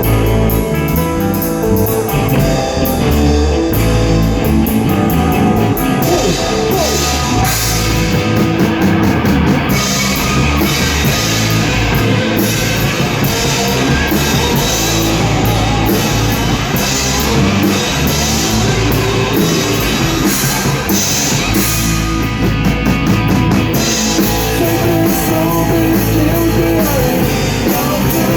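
Rock band playing an instrumental passage at full volume: drum kit with steady cymbal strikes, electric guitar and bass.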